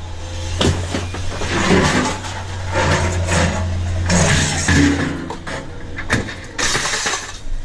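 Knocking and clattering of scrap metal being handled and shifted, over a steady low hum.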